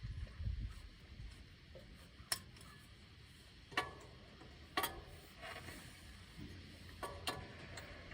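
Hand tools and bolts clinking against the metal battery box as it is bolted onto the tractor: four or five sharp metallic clinks a second or more apart, each ringing briefly. A low rumble is heard in the first second.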